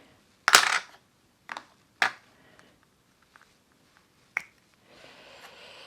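Plastic makeup compacts being picked up and handled, giving a few sharp clicks and clacks, the loudest about half a second in, followed near the end by a soft brushing hiss.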